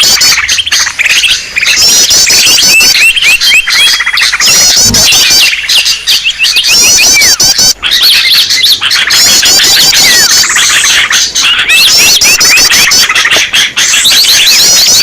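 Bird-lure recording of many small birds chirping and twittering at once, a dense, loud chorus of rapid repeated high trills and short calls overlapping throughout.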